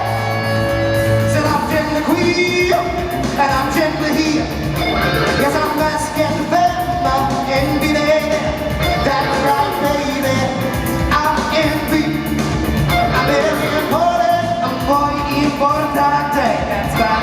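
Live rock-pop song: a singer's voice sliding through long held notes without clear words, over a full accompaniment with guitar and a steady bass.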